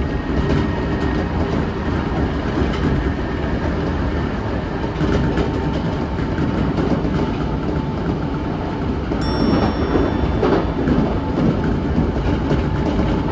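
Kintetsu electric train running at about 100 km/h, heard from inside the front car: a steady rumble of wheels on rail with rail-joint clickety-clack and a faint steady whine, the clatter strongest about ten seconds in.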